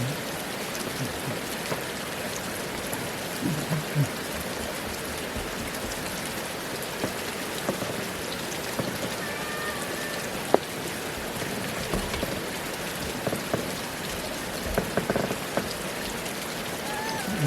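Steady rain falling and pattering on surfaces, with scattered drips ticking and one sharp, louder drop striking about ten seconds in.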